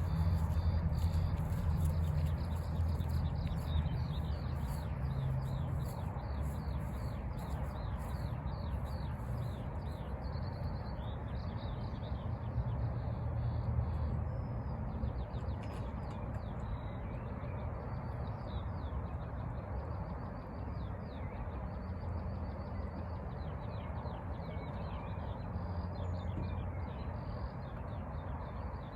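Small birds chirping and singing, many short repeated notes, over a low uneven rumble on the microphone.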